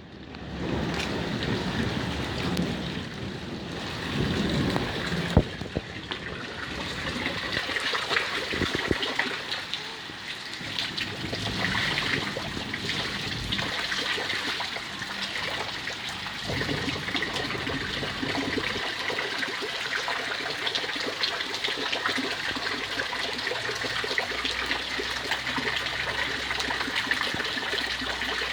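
Steady rain with water trickling and splashing, and one sharp knock about five seconds in.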